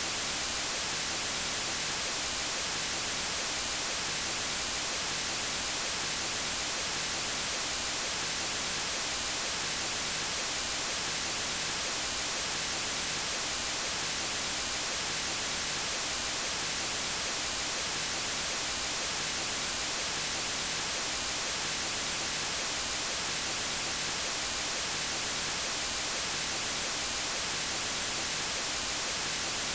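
Steady white noise: an even, unbroken hiss spread across all pitches, strongest in the treble.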